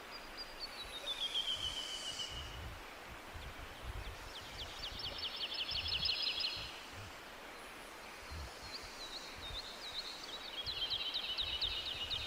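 Forest songbirds singing: a falling run of high notes, then two fast trilled songs of rapidly repeated high notes, each lasting about two seconds. A steady hiss and an uneven low rumble run underneath.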